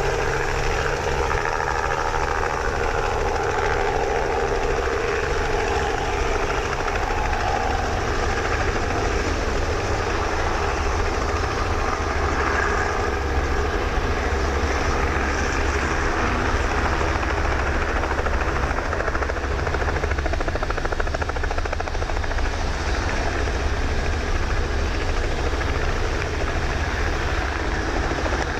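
Robinson R44 helicopter landing: the rotor thudding rapidly and steadily over the running piston engine, with a droning tone in the first ten seconds or so that then fades.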